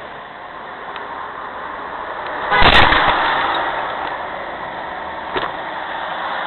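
Steady road and engine noise, broken about two and a half seconds in by one loud crash of a vehicle collision, which dies away over a second or so. A smaller knock follows near the end.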